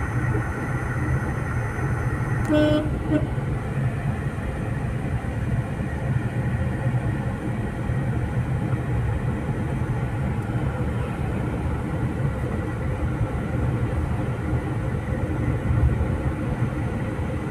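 Car engine running with road noise, heard from inside the cabin of a small manual car driving slowly in second gear: a steady low rumble. A short tone sounds briefly about two and a half seconds in.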